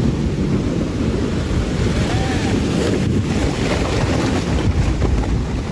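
Steady low rumbling roar, heavy with wind buffeting the microphone.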